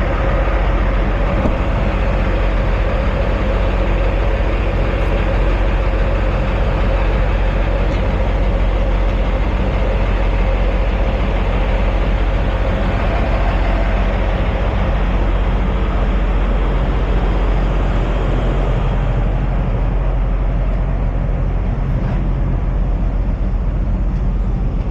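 Diesel semi-truck engine idling: a steady, unbroken low drone.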